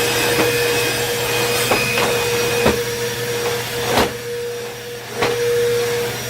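Bissell PowerForce bagless upright vacuum cleaner running with a steady motor hum and whine, the higher whine dropping away a little under 3 seconds in. Several sharp knocks and clacks come over it, about one every second or so.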